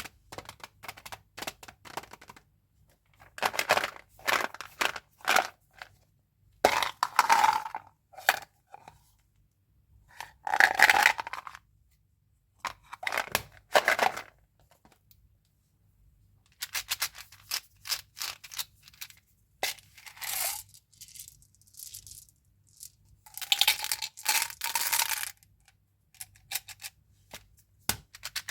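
Candy wrappers and packaging being handled and opened: crinkling and tearing of wrapper material with small clicks and rattles of hard candies, in short bursts separated by pauses.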